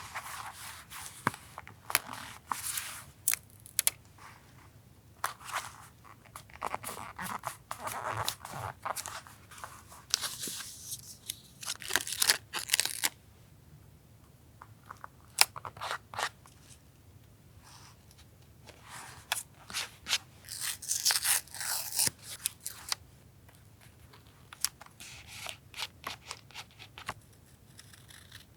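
Paper being cut with scissors and handled, in irregular bursts of snipping, crinkling and sharp clicks with short pauses between. A faint steady refrigerator hum runs underneath.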